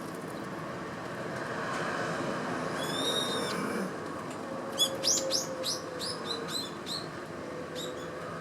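Eurasian tree sparrows chirping: one longer call about three seconds in, then a quick run of short high chirps from about five seconds in, over a steady background hum.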